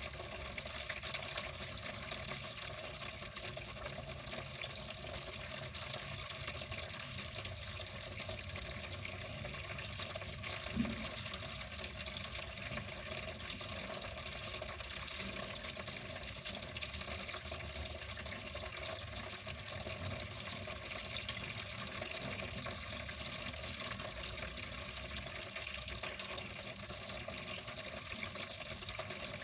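Water flowing in a steady, unbroken stream, with one small brief knock about eleven seconds in.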